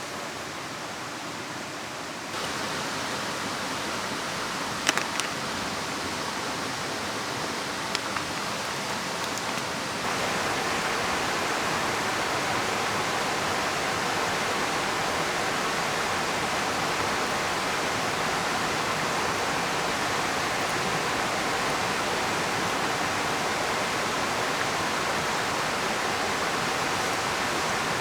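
Steady rushing of a river mixed with rain, stepping louder about two seconds in and again about ten seconds in, with a few sharp ticks in between.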